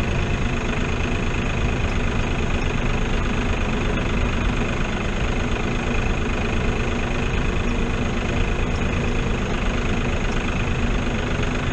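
New Holland TN70 tractor's diesel engine running steadily.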